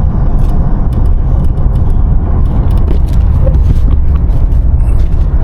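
Van driving on a road: a steady, loud low rumble of tyres and engine, with faint scattered light ticks.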